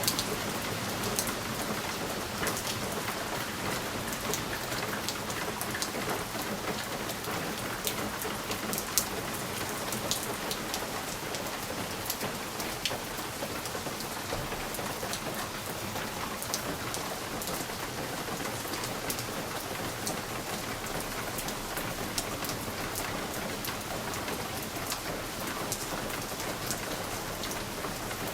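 Steady rain with many sharp drop ticks, the patter of raindrops hitting a window pane.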